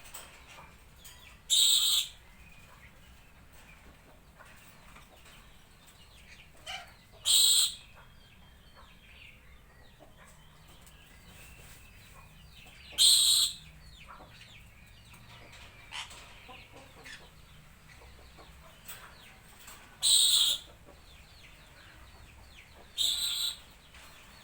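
Parrots screeching: five short, loud, harsh squawks spaced a few seconds apart, with fainter bird chirps in between.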